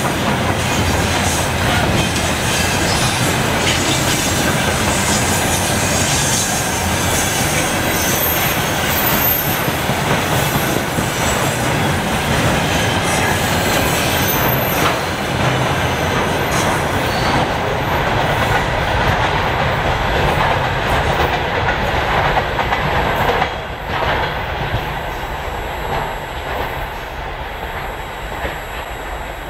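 Container train flatcars rolling past, with a steady clatter of steel wheels on the rails. About 23 seconds in the last car goes by and the noise drops sharply to a fainter, receding rumble.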